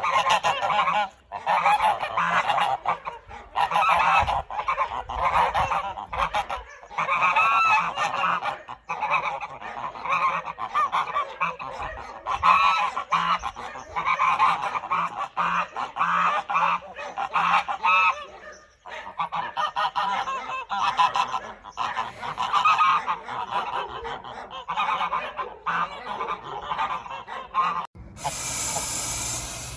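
Domestic geese honking, many loud overlapping calls in quick succession from a flock. Near the end a short hissing sound cuts in.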